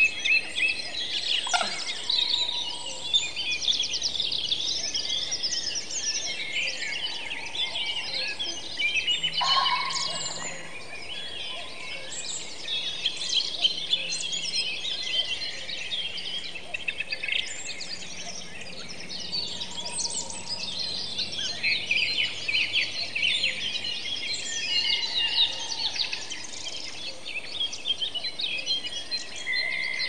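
A chorus of many songbirds singing and chirping together, a dense, continuous layer of overlapping high calls and trills.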